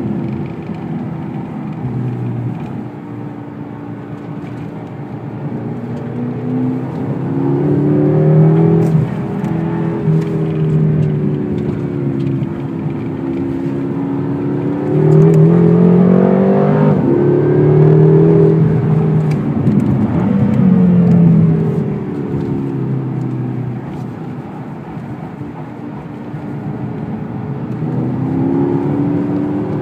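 Car engine heard from inside the cabin, accelerating hard and changing gear: the pitch climbs and drops back several times, loudest about halfway through.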